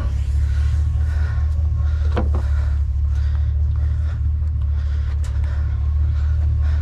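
Truck engine idling steadily as a low hum, with a few short knocks and scrapes about two seconds in and a sharp click a few seconds later.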